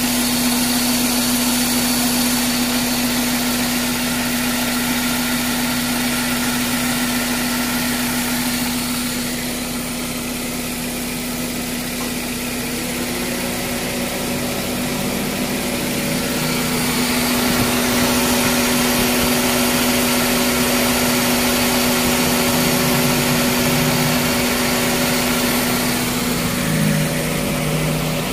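1995 Toyota Corolla engine idling with its electric radiator cooling fan running: a steady hum over a continuous whoosh of air. It dips a little in loudness for a few seconds near the middle, then comes back up.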